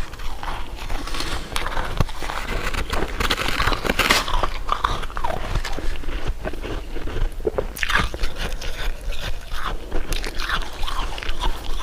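Close-miked eating: a steady run of crisp bites and crunching chews, with sharp crackles throughout.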